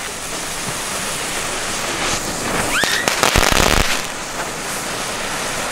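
Category 1 Kaliber A ground fireworks burning with a steady hiss. Just before the three-second mark a short rising whistle sounds, followed by about a second of loud, dense crackling, then the steady hiss again.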